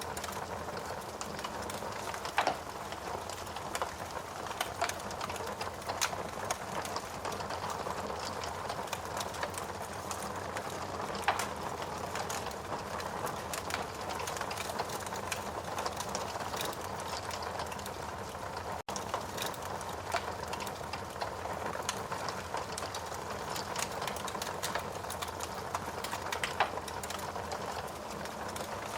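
Wood logs burning in a fireplace, crackling steadily over a low hiss, with a few louder pops. The sound cuts out for an instant about two-thirds of the way through.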